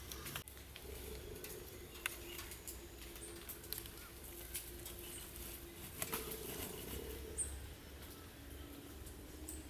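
Rain drops falling in scattered light taps and clicks over a steady low hum.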